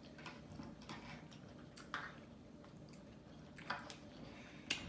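Quiet chewing and wet mouth sounds of someone eating japchae and side dishes, with a few brief smacks and clicks scattered through.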